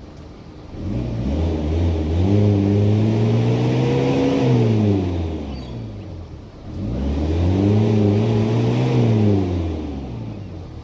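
Vehicle engine revving up, holding and easing off, twice in a row.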